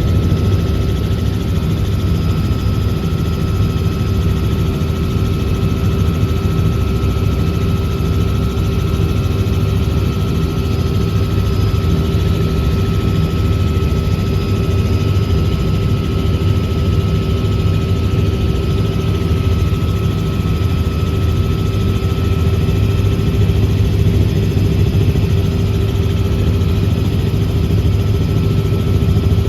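Tour helicopter in flight: steady rotor and engine noise with a deep rumble and a constant whine.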